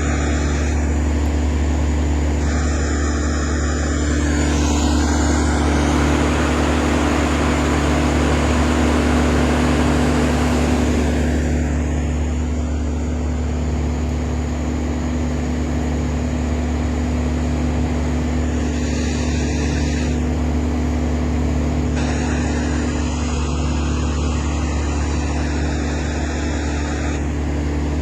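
Steady, unchanging low engine drone, like a large motor running at constant speed.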